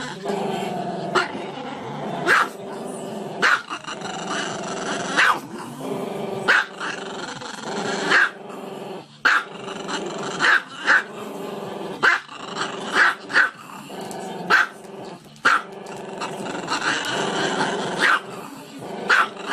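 Small long-haired dog with its head raised, howling in a long drawn-out call, broken by short sharp yaps roughly once a second.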